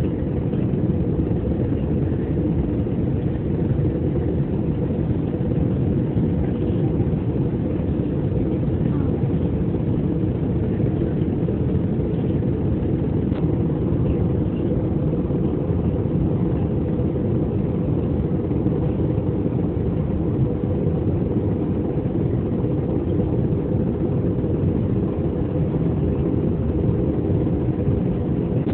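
Airplane drone of engines and rushing air, a steady low rumble that holds the same level throughout.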